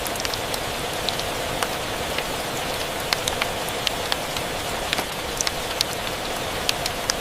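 Steady rain mixed with a crackling wood fire: an even hiss with frequent sharp, irregular pops and clicks.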